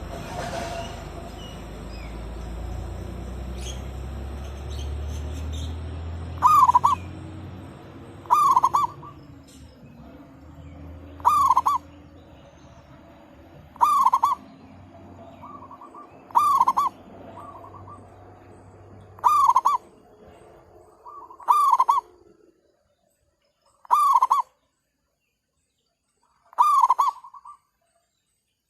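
Zebra dove (merbuk/perkutut) cooing: a short rolling phrase of quick notes, repeated nine times about every two and a half seconds from about six seconds in. Before the calls there is a low rumble.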